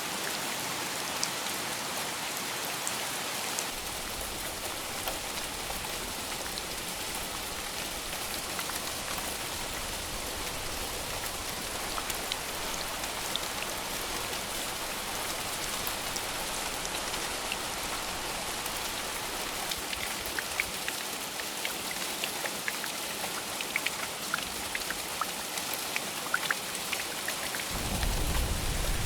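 Steady heavy rain, with sharp individual drop impacts that come more often in the second half. Low thunder rumbles faintly through the middle and swells near the end.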